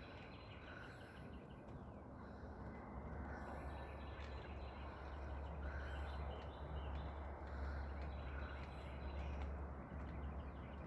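Small songbirds chirping faintly and intermittently over a steady low rumble that grows stronger a few seconds in.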